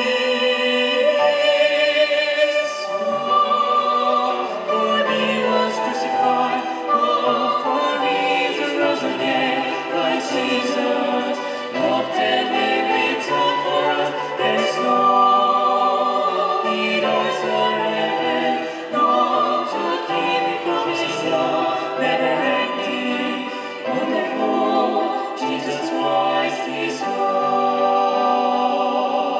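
Live orchestra with bowed strings playing a slow song, with classical-style singing.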